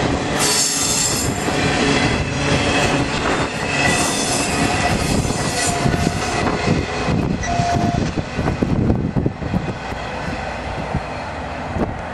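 A train passing close by, its wheels squealing on the rails with steady high-pitched tones. From about eight seconds in, a rapid clatter of wheels over the track takes over.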